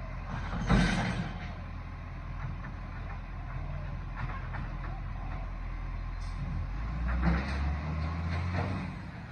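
Garbage truck engine running with a steady low rumble, with a short loud burst of noise about a second in and the engine note growing louder from about seven to nine seconds in.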